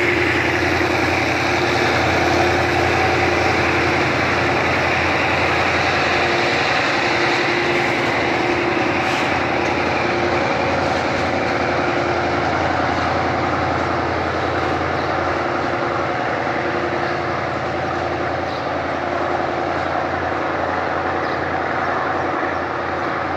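Freight train hauled by two DE 24000 diesel locomotives passing, with its wagons rolling by. It is a steady running noise with a constant engine tone in it, growing slightly fainter toward the end.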